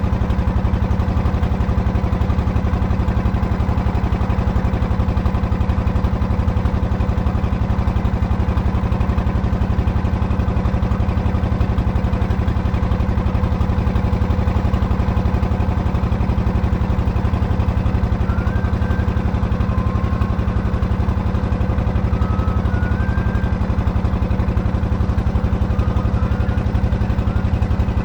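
An engine running steadily at idle, an even drone that does not change in speed.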